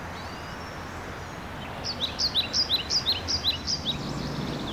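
A songbird singing a quick run of repeated two-note chirps, a higher note then a lower one, about three pairs a second for about two seconds, starting about two seconds in. It sits over a steady low outdoor background noise.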